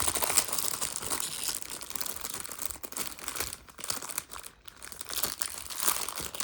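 Plastic wrapper of a 1987 Topps rack pack crinkling and tearing as it is opened by hand, in a continuous run of crackles that eases briefly about two-thirds of the way through.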